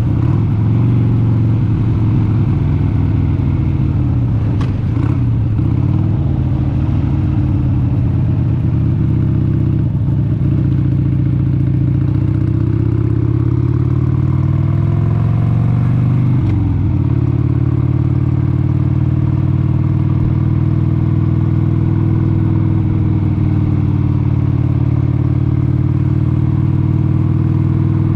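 1996 Harley-Davidson XLH883 Sportster's 883 cc air-cooled V-twin running under way, heard on the ride. Its pitch sags and climbs through the middle, changes abruptly about two-thirds of the way in, then holds steady.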